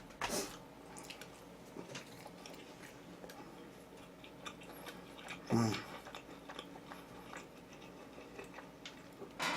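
Faint chewing and small mouth clicks of a person eating, with two short vocal sounds, about half a second in and about halfway through.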